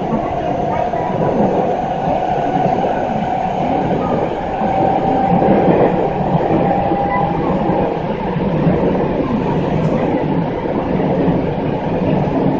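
Seibu 6000 series electric train with a Hitachi GTO-VVVF drive, running through the subway tunnel and heard from inside the car: a steady rumble of wheels on rail. A faint steady tone runs through about the first half.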